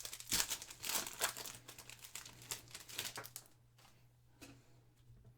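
Plastic trading-card pack wrapper being crinkled and torn open, a dense crackling for about three and a half seconds, then fainter scattered clicks as the cards are handled.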